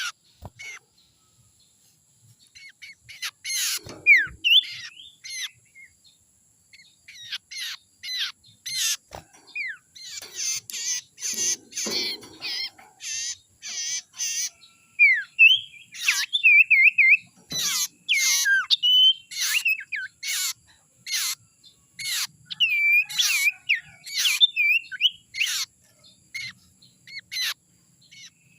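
Sirtu songbird calling: quick chirps and short up-and-down whistled notes, coming in bunches with short pauses between them.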